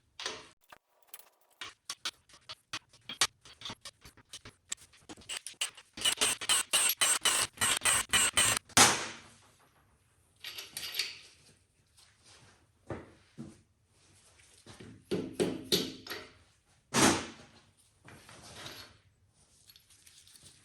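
Socket ratchet clicking in quick runs while loosening the main bearing cap bolts of a small-block Chevy LT1, the longest run about six to nine seconds in. Scattered clinks and knocks of metal tools and parts come between the runs.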